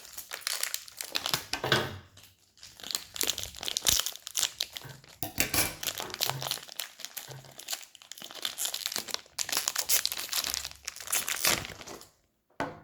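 Toy packaging being crinkled and torn open by hand, in long crackly stretches with short pauses about two seconds and eight seconds in.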